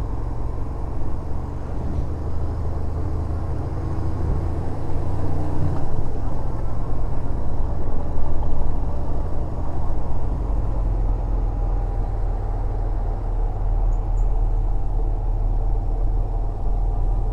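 Yamaha SRV250's V-twin engine running as the motorcycle is ridden, its note changing about six seconds in, with road and wind noise.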